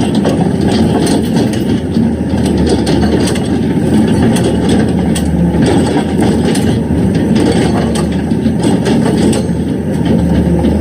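Excavator's diesel engine running steadily, with scattered sharp knocks and crunching of rock as the machine works the stone.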